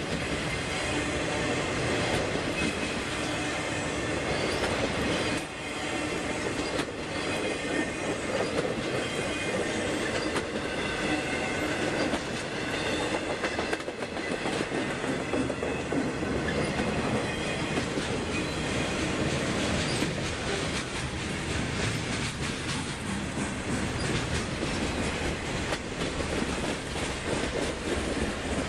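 Freight train cars rolling steadily past, steel wheels clattering over the rail joints, with a thin high wheel squeal at times.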